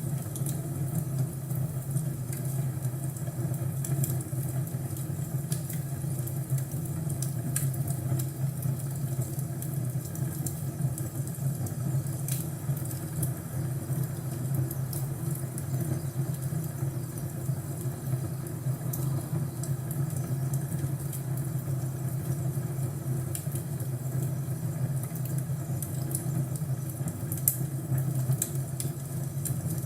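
Crackling fireplace: a steady low rumble of the fire with scattered sharp crackles and pops throughout.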